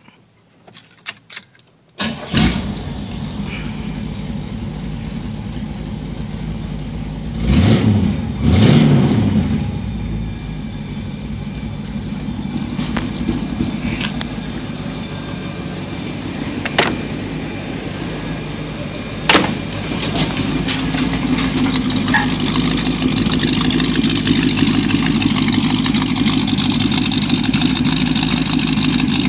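1939 Chevrolet sedan's engine starting about two seconds in, revved twice, then idling steadily. It grows louder and fuller in the last part, heard from behind at the dual tailpipes.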